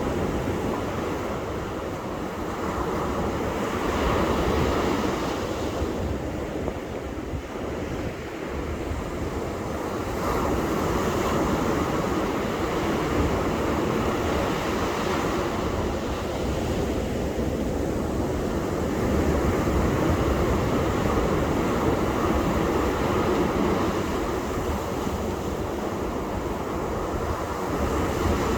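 Ocean surf: waves breaking and washing up the beach in a continuous rush that swells louder every several seconds as each wave comes in.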